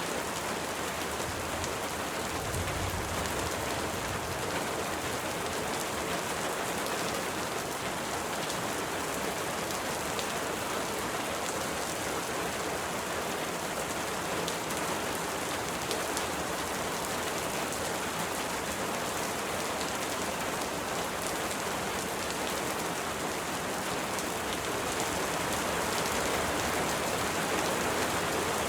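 Steady rain falling, a dense even hiss with many fine drop ticks, slightly louder near the end.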